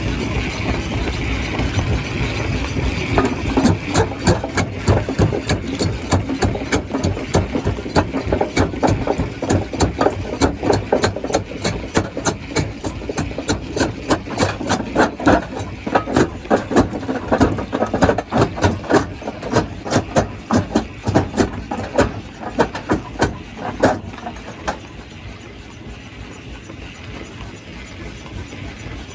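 Stone crusher running with a dense, irregular clatter of rocks cracking and knocking over the machine's steady rumble. The clatter stops about 24 seconds in, leaving only the quieter running of the machine.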